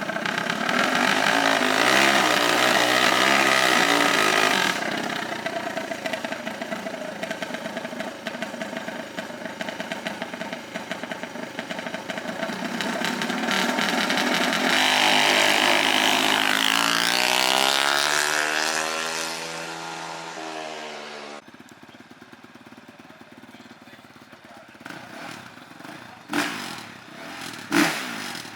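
Small off-road racing engines revving hard and accelerating; one climbs in pitch as it comes near and drops away as it passes, then the sound cuts off suddenly. After a quieter stretch, two sharp knocks come near the end.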